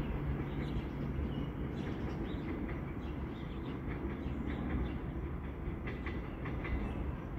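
Distant NJ Transit diesel-hauled Comet V train approaching, a steady low rumble with scattered faint high clicks.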